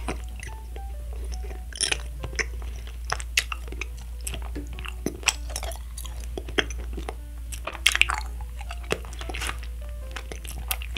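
Close-up chewing of Nik-L-Nip wax bottle candy: irregular wet clicks and crunches of the wax between the teeth, over soft background music.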